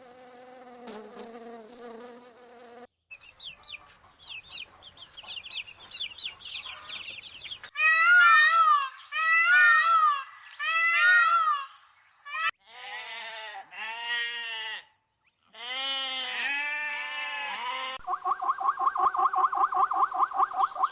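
Several different animal calls played one after another with abrupt cuts between them, chicken calls among them: a steady hum at first, then chirps, then loud repeated arched calls, and a fast run of short calls, several a second, near the end.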